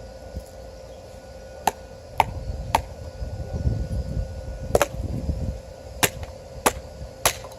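Cheap axe chopping into a piece of wood to split it: seven sharp strikes, some coming in quick pairs about half a second apart, as the blade works against a knot.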